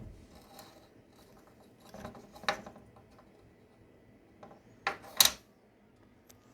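Light metallic clicks and clatter from a small metal scale-model ripper being handled, a few scattered knocks with the loudest pair about five seconds in.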